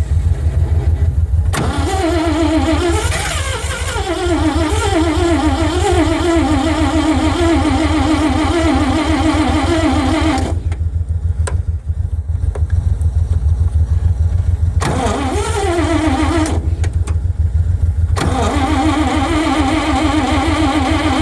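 Starter motor cranking the Cockshutt 555 combine's Chrysler 318 V8 in three bursts, one long and two short, without it catching: fuel is slow to come up from the tank on a cold start. Another engine runs steadily underneath.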